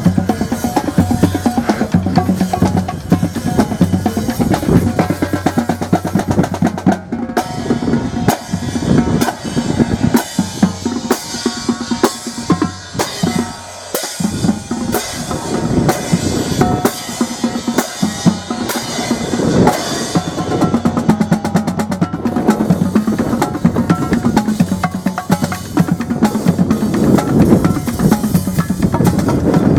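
Music with heavy drumming: a fast beat of drum strikes and rolls over a steady bass line.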